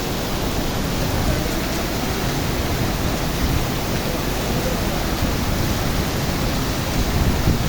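Steady rushing noise of heavy rain, with wind rumbling on the microphone.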